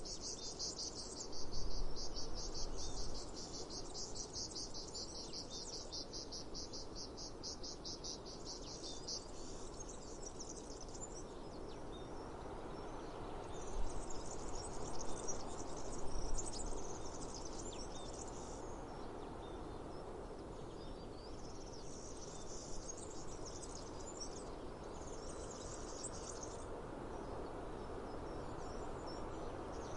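Cicadas buzzing in a rapid pulsing trill, continuous for the first ten seconds and then in separate bursts. Under them is a steady outdoor hiss of breeze, with a couple of louder low rumbles about two seconds in and around the middle.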